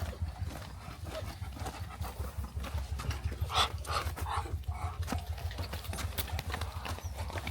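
A few short animal calls about three and a half seconds in, over a steady low rumble and scattered clicks.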